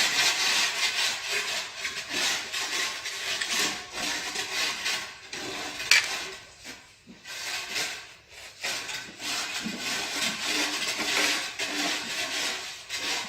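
Tile-laying work: repeated scraping and rubbing strokes of a hand tool on mortar and tile, with a sharp click about six seconds in.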